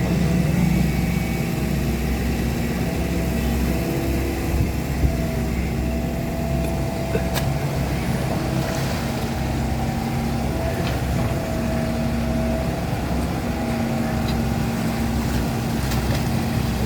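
Excavator's diesel engine running steadily under load with a whine whose pitch shifts as it works, and a couple of short knocks about five seconds in.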